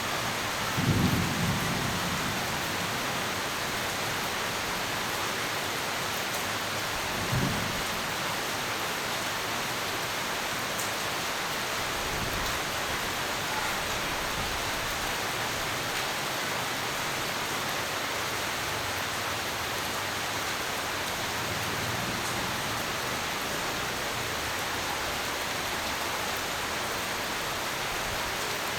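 Steady heavy rain with short rumbles of thunder, the loudest about a second in and another about seven seconds in, and fainter low rumbles later.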